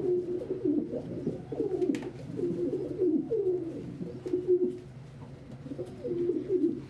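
Domestic pigeons cooing, a run of low, falling coos repeated one after another.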